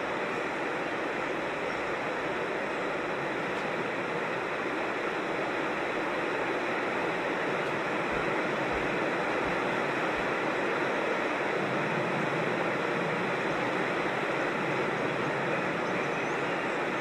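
Steady rushing of creek water, an even, unbroken hiss with no change in rhythm.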